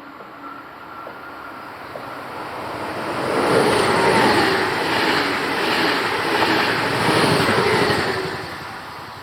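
A train passing close by: rolling noise with a faint whine in it swells over a couple of seconds, holds for about five seconds, then fades away near the end.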